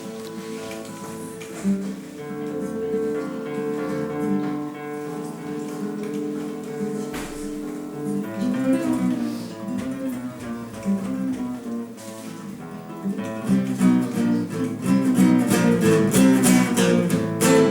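Acoustic guitar music: slow held notes at first, then faster picked passages from about eight seconds in, building louder with strummed chords in the last few seconds.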